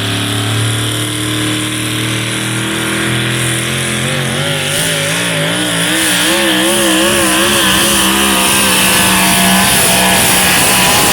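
Engine of a pulling truck or tractor running loud at full throttle while dragging the weight sled, its pitch wavering up and down from about four seconds in.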